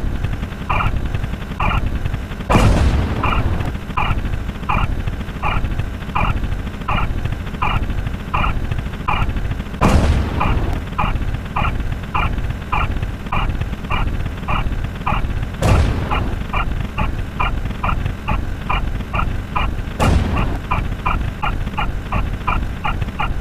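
Electronic counter sound effects: short two-tone beeps repeat at a steadily quickening pace, from about one a second to about three a second. A loud boom breaks in four times, with a fifth right at the end.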